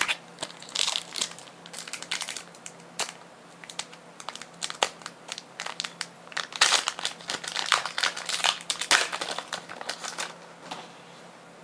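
Foil booster-pack wrapper crinkling and crackling in irregular bursts as the pack is handled and opened, busiest in the second half and stopping about a second before the end.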